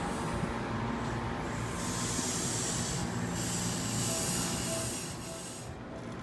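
Seibu 10000 series electric express train rolling slowly along the platform as it brakes to a stop. A steady low running rumble carries a high hiss from about two seconds in, which cuts off sharply near the end.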